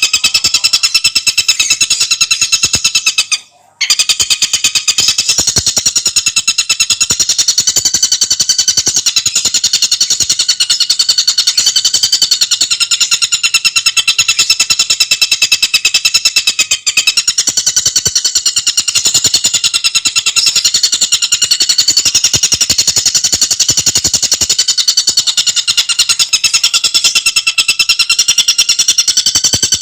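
Tengkek buto bird singing a fast, unbroken rattling trill of rapid notes, with a short break about three and a half seconds in.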